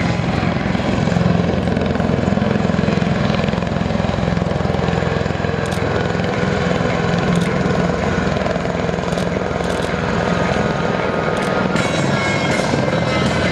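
MV-22B Osprey tiltrotor's two proprotors and turboshaft engines running at hover power in helicopter mode: a loud, steady, deep rotor and turbine rumble.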